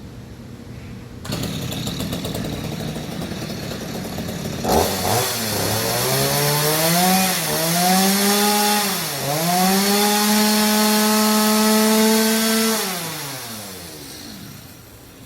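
Electric power tool on timber: after a rushing noise starts about a second in, its motor spins up, dips in pitch twice as if loaded in a cut, runs steady, then winds down near the end.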